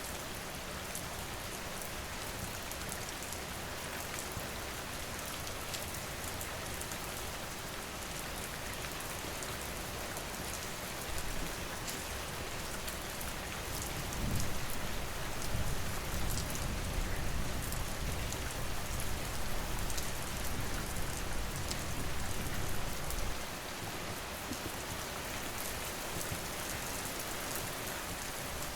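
Steady rain falling, with fine crackles of a wood fire over it. A low rumble swells about eleven seconds in and cuts off about twenty-three seconds in.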